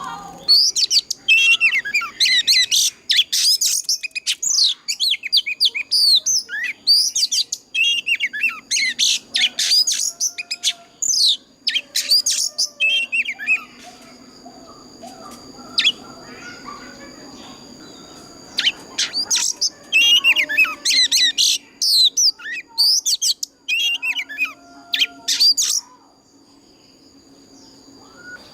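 Oriental magpie-robin singing: loud, quick phrases of varied whistles, trills and sliding notes, in two long bouts with a pause of a few seconds between them, the song of a mature wild bird.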